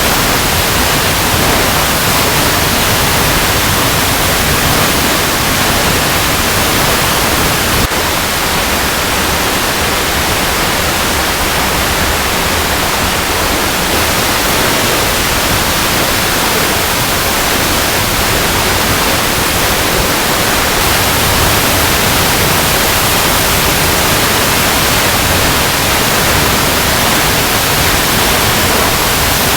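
Waterfall cascading over rocks: a steady, unbroken rush of falling water, hissing and bright.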